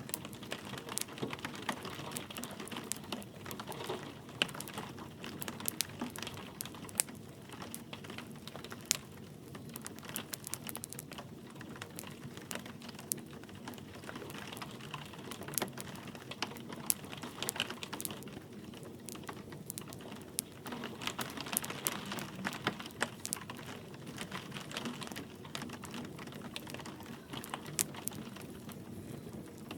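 Wood fire crackling, with many sharp, irregular pops and snaps over a steady soft hiss of light rain.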